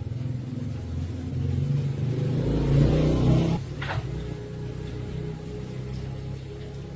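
Honda 110cc single-cylinder motorcycle engine running. It is revved up from about a second and a half in, then drops back to a steady idle after about three and a half seconds, with a sharp click just after.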